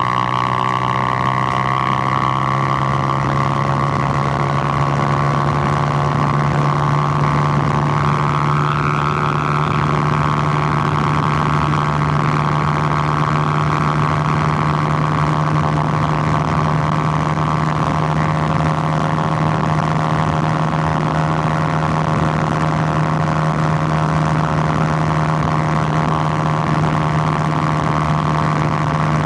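Suzuki GN125's 124 cc single-cylinder four-stroke engine running at steady revs, its note holding one pitch with only slight drift.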